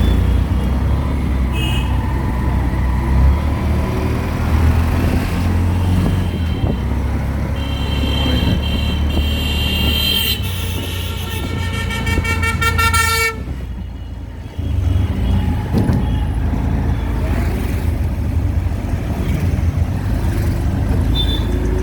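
Auto-rickshaw engine running with a steady low rumble, with traffic horns honking around it: a short beep early on, repeated honking for several seconds from about a third of the way in, and another short beep near the end. The engine sound dips briefly just after the long honking, then picks up again.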